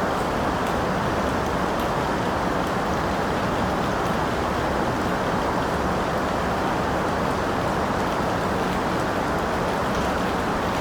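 Steady rain falling, an even hiss and patter with no breaks.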